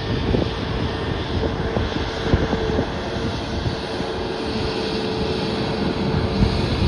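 Jet airliner engines running: a steady noise with a heavy low rumble and a steady whine held throughout, with wind buffeting the microphone.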